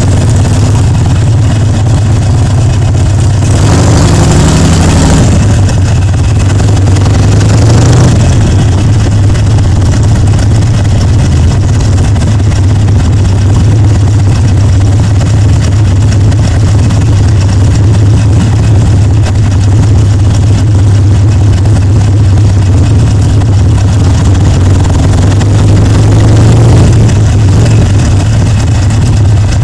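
Harley-Davidson Sportster Seventy-Two's air-cooled 1200 cc V-twin running loud through its pipes while being ridden, its note rising for a moment about four seconds in and again near the end.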